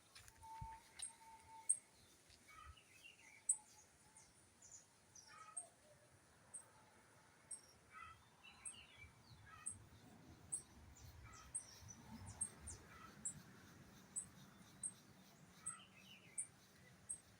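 Faint mix of birds calling and chirping, with a very high, short chirp repeating about once or twice a second.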